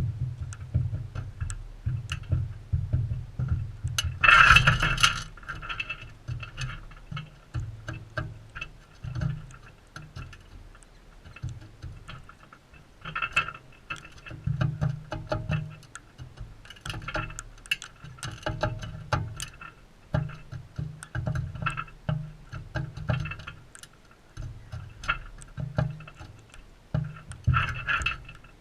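Galahs feeding, with rapid irregular clicks and cracks and a few short, louder harsh bursts; the loudest burst comes about four seconds in.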